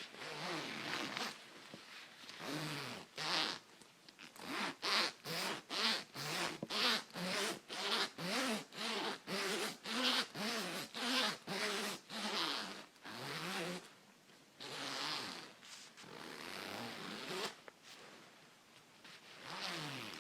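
Coat zipper being run up and down close to the microphone: a few slow strokes, then fast back-and-forth zipping at about two strokes a second for several seconds, slowing to longer strokes near the end. Each stroke rasps with a pitch that rises and falls.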